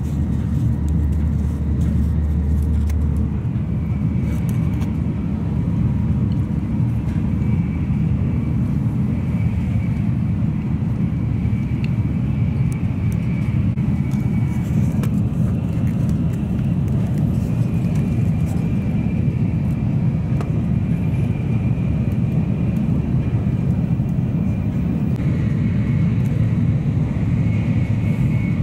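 Cabin noise of a Tokaido Shinkansen train running at speed: a steady low rumble with a faint, wavering high whine above it. A low hum fades out about three seconds in.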